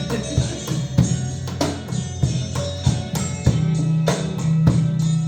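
Instrumental break of a slow rock song: a Peruvian cajón struck in a steady rhythm over held bass notes, with no singing.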